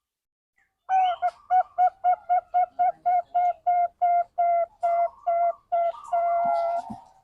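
Zebra dove (Bangkok perkutut) cooing: a rapid run of short clear coos, about four a second, closing in a longer held coo, played as a lure to get other perkutut to sing.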